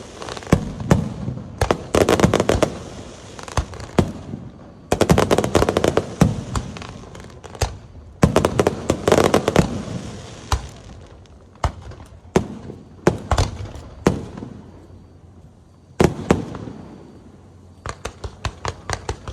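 Aerial fireworks display: volleys of rapid sharp bangs and crackling come in clusters every couple of seconds, with quieter gaps between them and a single sharp bang near the end.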